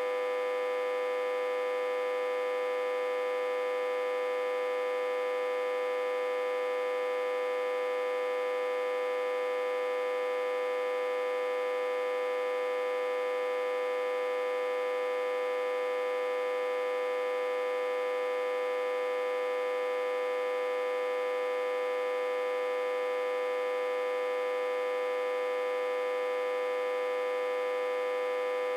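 Autotransformer, reverse-connected to a step-down transformer with its input at about 60–80 V, humming steadily: one strong high hum with many overtones above it, unchanging throughout.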